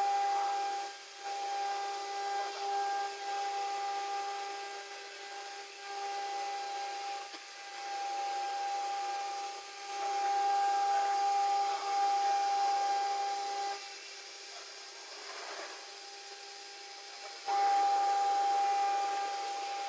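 RD-1325 CNC router running with a steady high whine over a hiss, its loudness rising and falling as it works. The whine drops away for a few seconds past the middle and comes back near the end.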